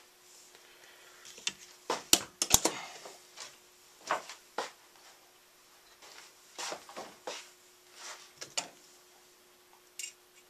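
Scattered knocks and clicks of a clear plastic (Lexan) panel being handled and laid into a wooden bird feeder, the sharpest a cluster of clacks about two seconds in. A faint steady hum runs underneath.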